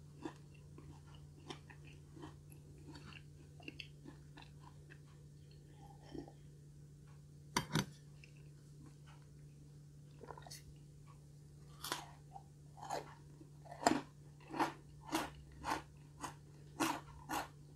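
Close-miked chewing of a chocolate chip cookie: scattered soft crunches, a sharp bite a little under eight seconds in, then regular chewing strokes a little under two a second in the second half.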